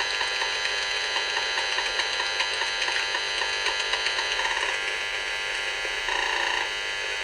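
Handheld RF meter's audio output: a steady electronic buzz with short, irregular beeps and two longer beeps, about four and a half and six seconds in. The owner takes the beeping for microwave-weapon targeting.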